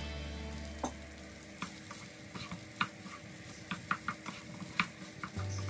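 Pineapple fried rice frying in a pan, stirred with a metal utensil: a faint sizzle with scattered sharp clinks and scrapes of the utensil against the pan.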